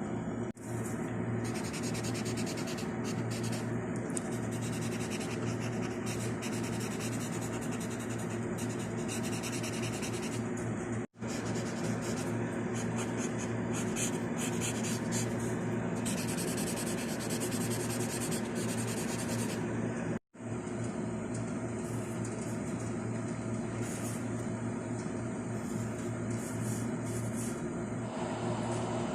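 Pencil scratching on paper as a drawing is worked, over a steady background hum. The sound cuts out completely for a moment three times.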